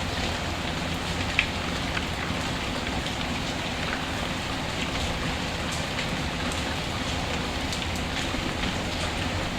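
Steady rain falling, an even hiss with scattered small ticks and one sharper click about one and a half seconds in.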